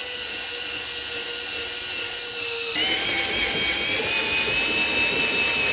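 Handheld power tool running at high speed with a steady whine. About three seconds in, a cut switches to a louder, higher-pitched run of the tool.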